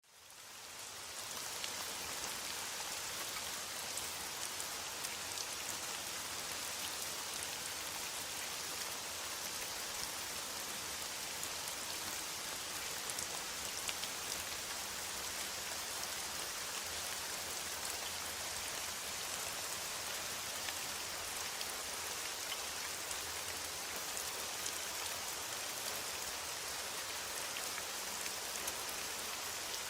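Steady rain falling on forest foliage, a dense even hiss of many fine drops, fading in over the first second or two.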